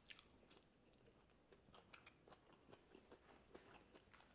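Faint chewing of crispy fried chicken: a bite just after the start, then soft, irregular crunching clicks.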